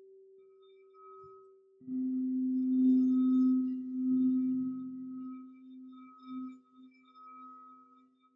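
Singing bowls ringing: a higher bowl's tone fades away, then about two seconds in a lower bowl sounds suddenly and rings out with a slow wavering pulse as it decays.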